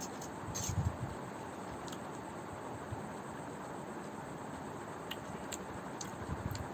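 Someone eating noodles with gravy: scattered soft mouth clicks and a couple of low thumps of chewing over a steady background hiss.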